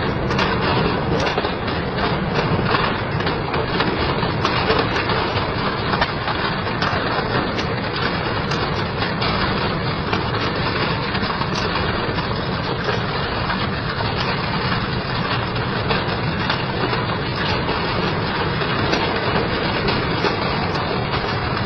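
Double-shaft industrial shredder tearing through scrap, a dense continuous grinding and crunching with many small cracks and snaps.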